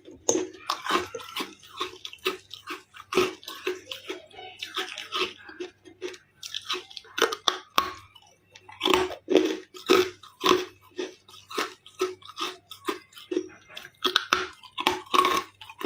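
Close-miked chewing of carbonated ice: a run of crisp crunches, about two a second, as the ice is bitten and ground between the teeth.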